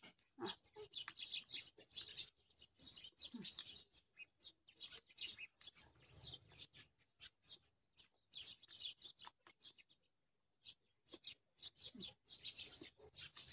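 A small bird chirping and twittering in quick, short, high calls, going quiet for about a second near the ten-second mark before starting again.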